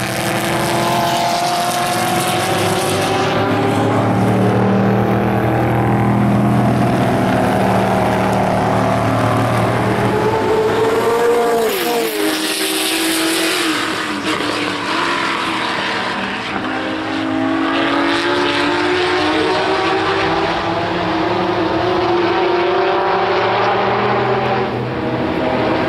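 Historic 1960s racing cars at full race pace, several engines running at high revs at once, their notes rising and falling as the cars pass. About halfway through one engine note falls steeply in pitch as a car goes by.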